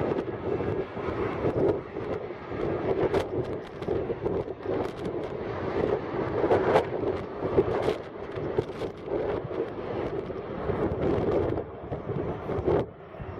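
Jet engine noise from a Boeing 757-300 at takeoff power, a steady rush of sound, heavily mixed with wind buffeting the microphone in irregular gusts.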